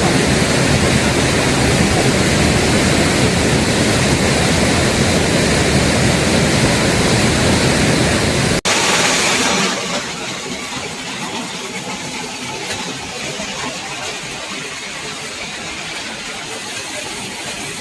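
Rushing river water, a loud, even noise. A little over halfway through it cuts off sharply and resumes quieter, with less bass.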